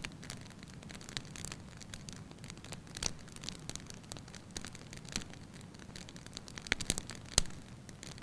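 Fire in a fireplace crackling, with irregular sharp pops over a low, steady rumble; the loudest pops come in a cluster near the end.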